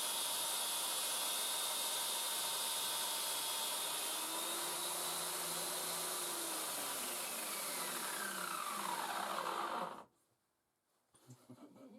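Homemade high-speed belt grinder running with a steady whir and hiss. About four seconds in its pitch starts to fall as it coasts down after being switched off, and the sound cuts off abruptly near ten seconds.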